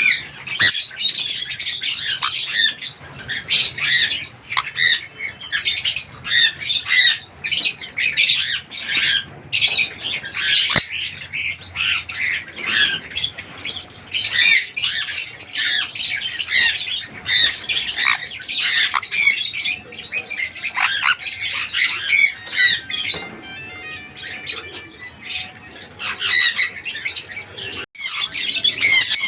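Sun conure calling over and over in rapid, shrill squawks and chatter, easing off for a few seconds past the middle before picking up again.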